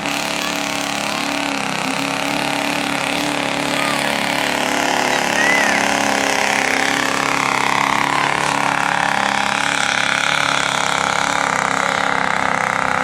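Vehicle engine running steadily at idle, a little louder from about five seconds in.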